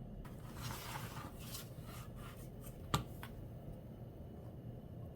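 A watercolour brush briefly scrubbing and rubbing, followed by a few light clicks and one sharp tap about three seconds in.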